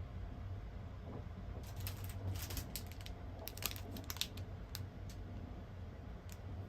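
Steady low rumble of a train running, heard inside a compartment, with a cluster of light clicks and rustling from something being handled between about two and five seconds in.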